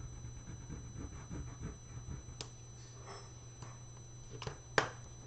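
Colored pencil rubbing and scratching on paper in short repeated strokes, over a steady low hum, with a few light taps and one sharp click a little under five seconds in.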